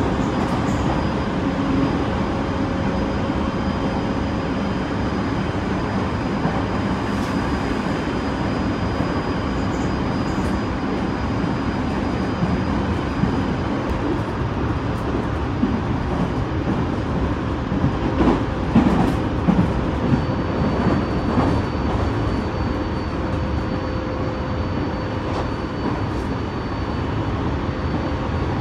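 Tobu 30000 series electric commuter train running at steady speed, heard from inside the car: a steady rumble of wheels on rail with a faint constant whine. About two-thirds of the way through comes a run of sharp clacks from the wheels.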